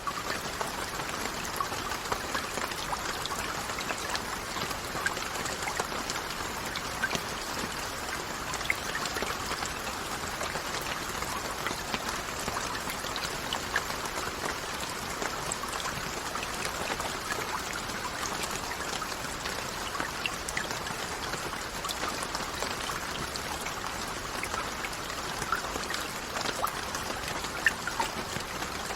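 Steady rain falling: a dense, even hiss with many individual drops ticking through it.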